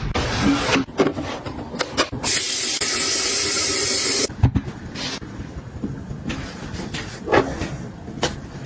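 A spray hissing steadily for about two seconds, then cutting off sharply, among scattered clicks and taps of items being handled.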